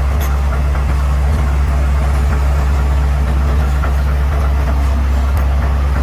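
Bulldozer's diesel engine running steadily with a deep, even drone, with a few faint clicks over it.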